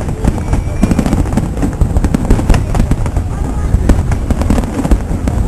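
Fireworks going off in a rapid, irregular string of loud bangs and booms, many in quick succession.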